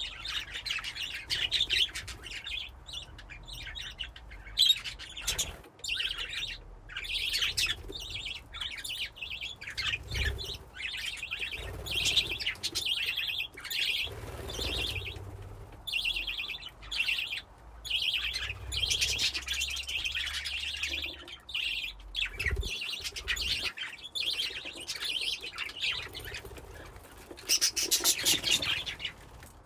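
A flock of budgies (budgerigars) in a colony cage chirping and chattering continuously, many birds at once, with a louder, higher burst of chirps near the end.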